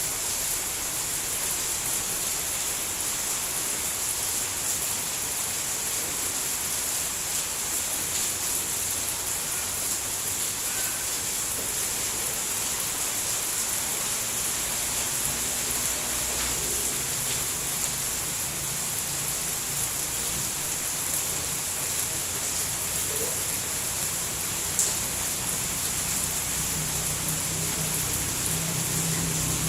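Steady, even hiss of falling rain. A low rumble grows louder over the last several seconds, and there is a single sharp tick near the end.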